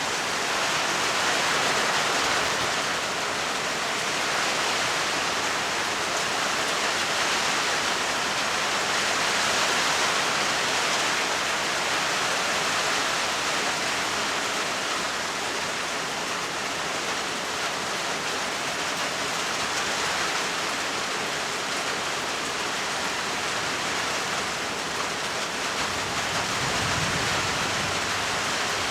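Steady heavy rainfall, an even hiss of rain without a break. Near the end comes a brief faint low rumble of distant thunder.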